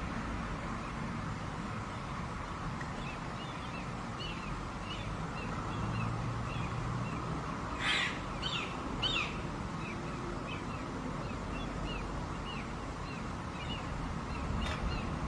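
Birds calling: a run of short, repeated high chirps, with two louder, harsher calls about eight and nine seconds in, over a steady outdoor background.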